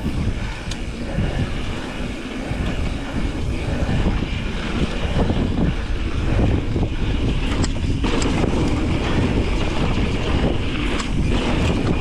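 Wind buffeting the microphone of a mountain biker's camera while riding a dirt trail, a steady rough low rumble that jumps up right at the start, with the rattle of the bike over the ground underneath.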